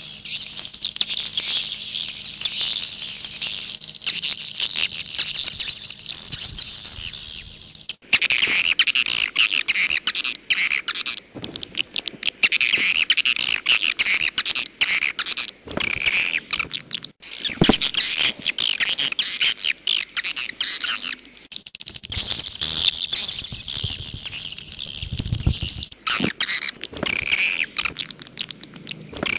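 Swiftlets twittering: a dense stream of rapid, high chirps that stops and restarts abruptly several times, as in a looped or spliced recording of swiftlet calls.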